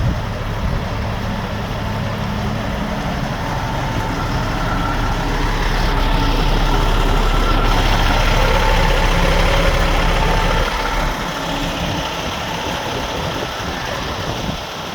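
Semi truck's diesel engine running with a low, steady rumble that eases off about eleven seconds in.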